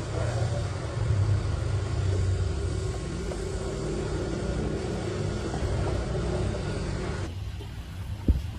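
Dump truck engine running steadily with a low rumble. Near the end the sound changes abruptly and a single sharp knock follows.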